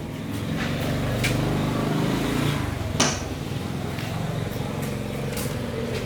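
A motor vehicle engine running steadily, with one sharp click about three seconds in.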